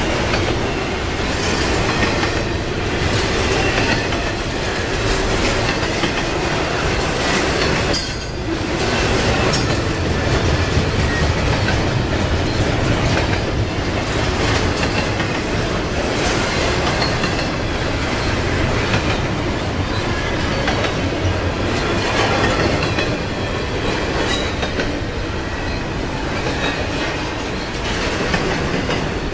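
Double-stack intermodal freight train rolling past at steady speed: a continuous rumble of the cars, with the steel wheels clattering over the rail joints in an irregular beat.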